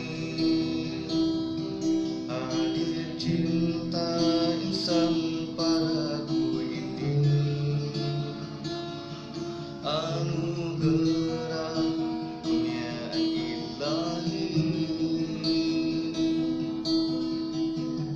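Acoustic guitar playing an instrumental passage of a song, plucked and strummed.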